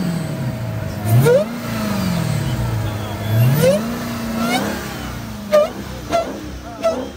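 Car engine being revved in the open, twice: each time the pitch climbs steeply, then winds slowly back down toward idle. A few short sharp sounds follow near the end.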